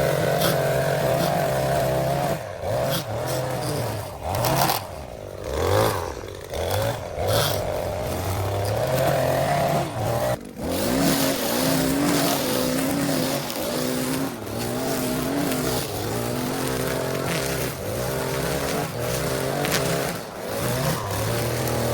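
Lawn mower engine running steadily, with a few brief dips in level and pitch.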